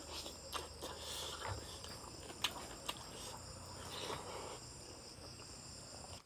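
Close-up eating sounds of chicken curry and rice eaten by hand: wet chewing and lip smacking with repeated sharp mouth clicks. A steady high-pitched buzz runs underneath.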